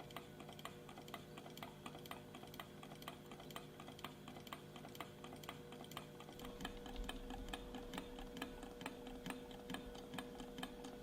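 Small low-temperature-differential Stirling engine running on the heat of a cup of hot water, its mechanism ticking softly and evenly about four times a second.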